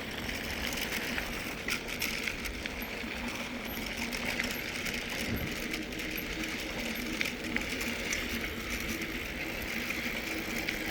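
Mountain bike rolling along a trail of compact hard sand and chopped-up gravel: steady tyre and drivetrain noise with small scattered clicks.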